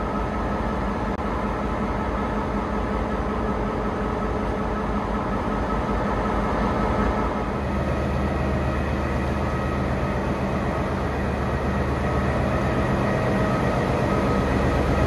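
Diesel-hauled commuter train running, heard on board: a steady rumble and rail noise from the EMD GL22 diesel-electric locomotive and coaches. The low rumble grows stronger about halfway through.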